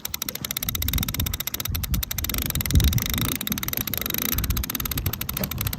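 Sailboat sheet winch ratcheting in rapid, even clicks, about ten a second, as the jib sheet is hauled in. Wind gusts rumble on the microphone underneath.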